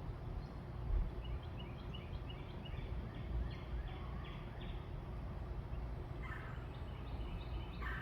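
Backyard birds calling: a rapid run of short high notes for a couple of seconds, then two louder calls near the end, over a steady low rumble.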